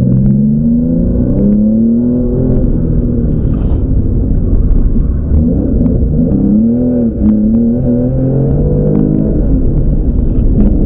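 Porsche 911's flat-six engine heard from inside the cabin under hard driving, its pitch rising and falling as it revs through the gears. There is a brief lift in engine note about seven seconds in.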